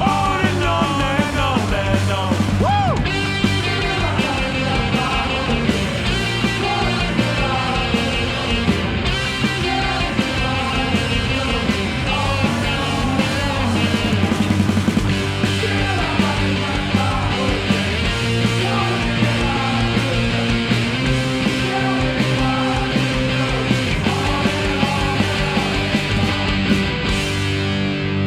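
Punk-rock band music, an instrumental stretch of the song with no sung lyrics, the band playing loudly over a steady beat.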